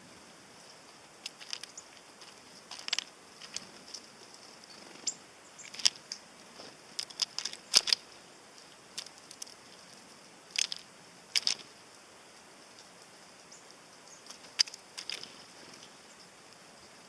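Tits at a sunflower-seed feeder: irregular sharp taps and clicks of beaks pecking and cracking open the seeds, some close together in quick runs.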